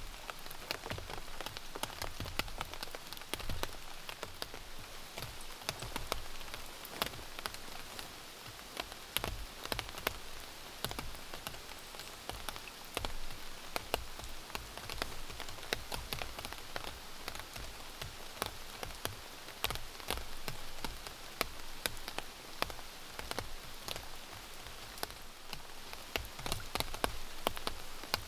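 Steady rain falling, with many individual drops landing in sharp, irregular ticks.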